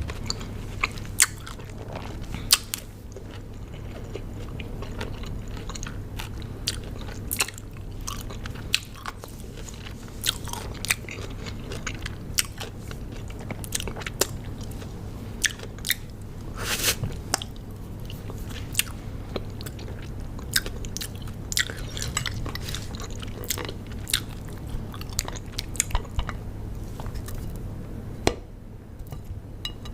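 Close-miked crunchy chewing of raw cucumber: a run of sharp, irregular crunches and mouth sounds, with a louder bite about seventeen seconds in. A steady low hum lies under it.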